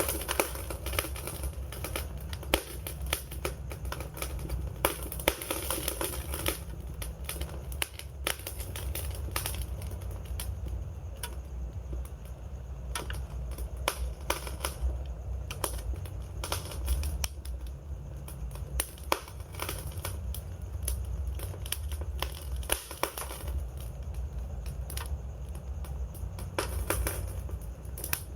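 Wood fire burning, with a steady low rumble of flames and frequent sharp crackles and pops from the burning wood.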